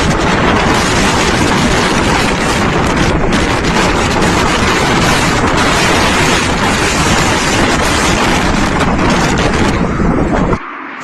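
Heavy hail pounding down: a loud, dense, steady clatter that cuts off suddenly near the end.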